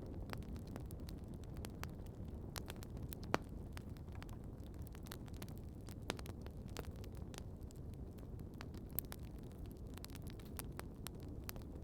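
Wood campfire crackling, with irregular sharp pops and snaps over a steady low rumble; the loudest pop comes about three seconds in.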